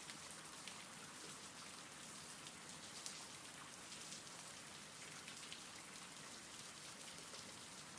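Faint steady rain: a soft, even hiss with scattered drops ticking now and then.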